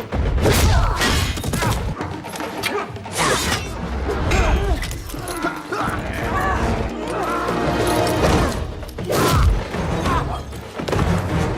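Action-film fight soundtrack: a music score under a run of hits, thuds and crashes from hand-to-hand combat.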